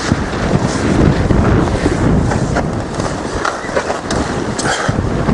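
Strong wind buffeting the microphone in gusts, with scattered small knocks and rustles through it.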